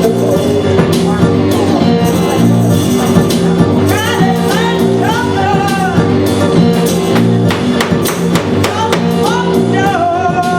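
Live band music: a full rhythm section with steady sustained chords, tambourine-like percussion and a singer's voice gliding up and down in pitch in two phrases.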